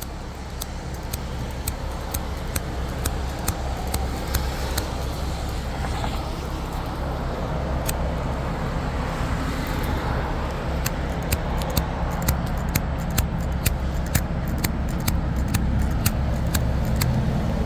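Steady low rumble of vehicle and road traffic, growing slightly louder, with scattered sharp ticks that come more often in the second half.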